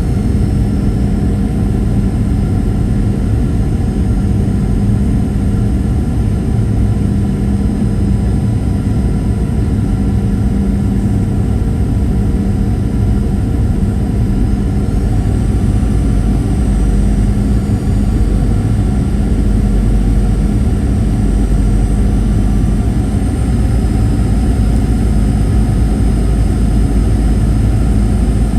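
Steady cabin noise inside a Boeing 737-800 in flight: a low rush of airflow with the drone of its CFM56-7B engines. A few high engine tones shift slightly about halfway through and again near the end.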